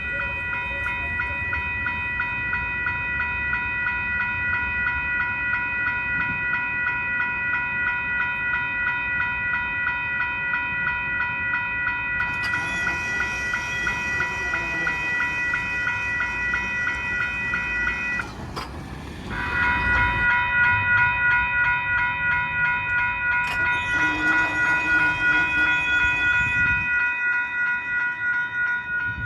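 Grade crossing warning bells ringing in a rapid, even beat, with a short break about two-thirds of the way through. A light rail train passes with a hiss over the middle of the stretch, and there is further train noise near the end.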